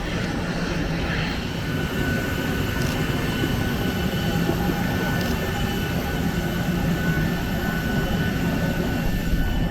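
Boeing 737-800 taxiing after landing, its CFM56 jet engines at idle: a steady low rumble with a steady high whine over it.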